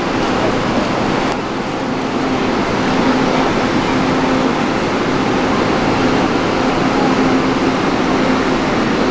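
Steady, loud running noise of a train at a station platform, with a low hum that comes and goes several times.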